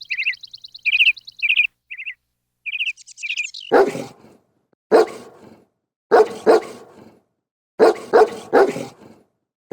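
High, quick chirping squeaks with a fast trill for the first few seconds, then a dog barking in short runs of two to four barks.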